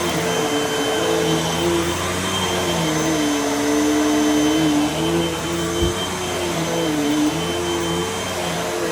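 Hoover WindTunnel upright vacuum cleaner running continuously, its motor pitch dipping and rising several times as the load on it changes. A short knock about six seconds in.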